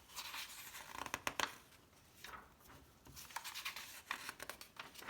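Magazine pages being handled and turned: a few soft paper swishes and rustles with small clicks.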